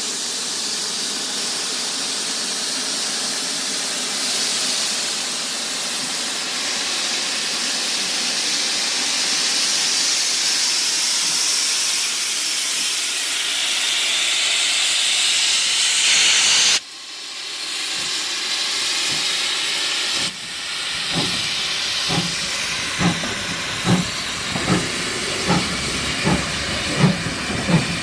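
Steam locomotive blowing off a steady hiss of escaping steam, which breaks off suddenly twice. The engine then gets under way with regular exhaust chuffs, a little over one a second and slowly quickening.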